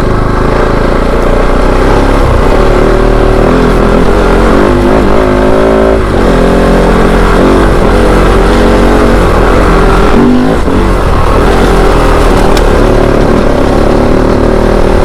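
Kove 450 Rally's single-cylinder engine running under way, its pitch climbing and dropping as the throttle opens and closes and the gears change.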